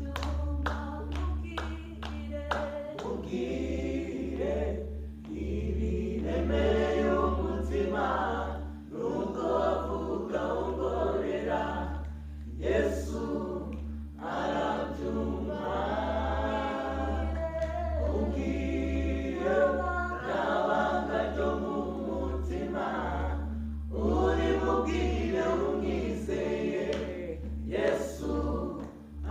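A group of voices singing a worship song together in phrases with short breaks, over a steady low hum.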